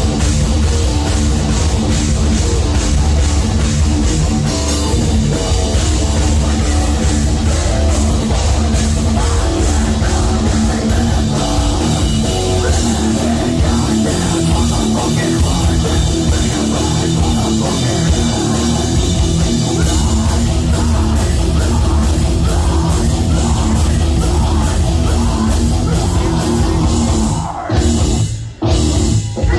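Live heavy metal band playing at full volume: distorted electric guitars, bass and a pounding drum kit. The music cuts out for two brief stops near the end.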